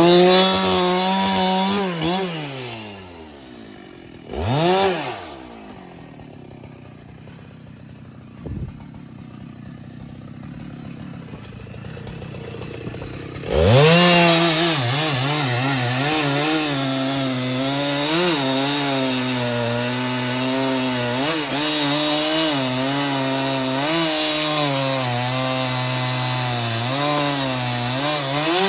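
Husqvarna 395XP 94 cc two-stroke chainsaw revved up briefly and let back to idle, blipped once, then held at full throttle for about fifteen seconds with its pitch dipping and recovering as the chain bogs in the wood, falling away at the end.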